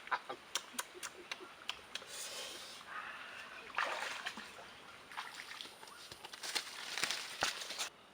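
Water splashing and sloshing in irregular short bursts, with sharp clicks and taps between them; it cuts off suddenly near the end.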